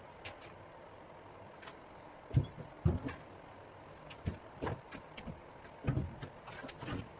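A string of irregular knocks and clunks during work on the Scout's rear floor, loudest about two and a half and three seconds in, with another cluster near six seconds, over a faint steady background hum.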